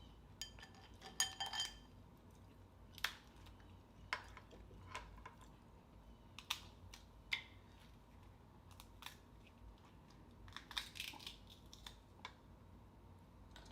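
Dungeness crab shell being cracked and pulled apart by hand: faint, irregular sharp cracks and clicks, with a small cluster about a second in and another near the end.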